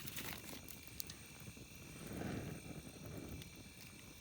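Campfire crackling, with occasional sharp pops over a faint steady high whine; a soft low rush of flame swells briefly about two seconds in.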